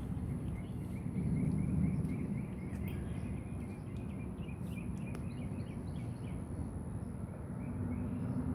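Outdoor ambience: a steady low rumble, with a run of short high chirps repeating several times a second through the first half or so.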